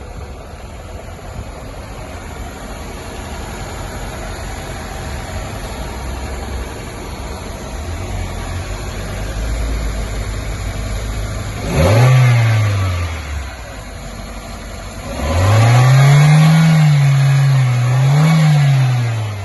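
Toyota Corolla AE112 four-cylinder petrol engine idling steadily, then revved twice. First comes a quick blip about twelve seconds in that falls straight back to idle. Near the end comes a longer rev held for about four seconds, dipping briefly in the middle before it drops back.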